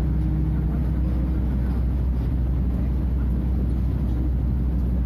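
Diesel engine of a Scania F250HB bus (DC09 nine-litre five-cylinder) running steadily as a deep, constant drone. A humming tone over it fades out about a second and a half in.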